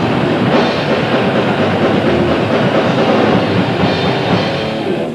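Grindcore band playing live: a dense wall of heavily distorted guitar and bass over fast, relentless drumming. The song cuts off right at the end.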